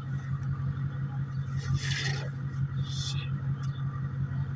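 Steady low engine hum with a quick, even pulse, like an engine idling. Two short scrapes come about two and three seconds in.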